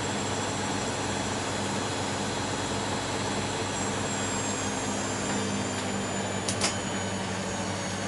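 Bosch Maxx front-loading washing machine spinning: a steady motor hum and whine, with the high whine easing down slightly after the middle. Two short sharp clicks come near the end.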